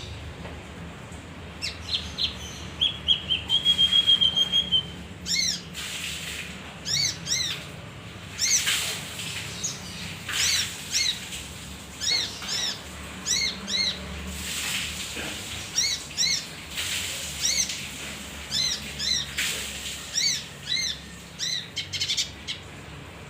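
Male kinoi singing: short phrases of repeated clear, arched whistled notes, with a fast trill, the loudest part, about three to four seconds in. A faint steady low hum lies underneath.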